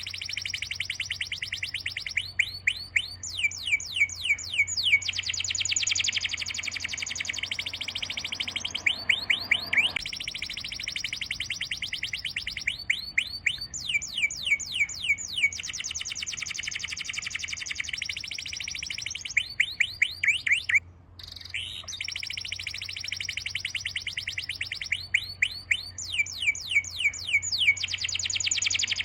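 Songbirds chirping and trilling continuously, with runs of quick downward-sweeping whistled notes. The same passage repeats about every eleven seconds, as in a looped recording, with a brief gap about two-thirds of the way through.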